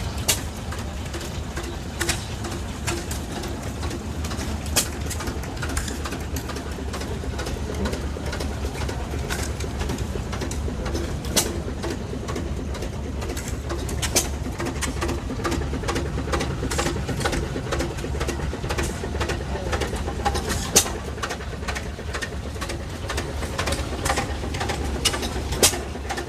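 Small stationary farm engines running with a steady chug over a low rumble, and sharp pops at irregular intervals several seconds apart.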